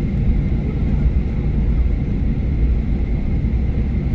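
Airliner cabin noise: the steady low rumble of the engines and airflow heard from inside the passenger cabin, with a faint steady high hum above it.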